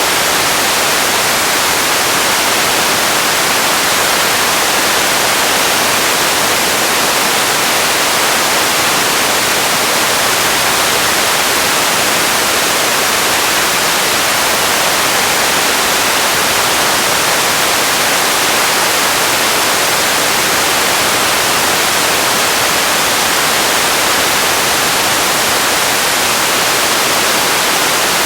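Steady radio static: an even, loud hiss, strongest in the upper range, with no tones or breaks.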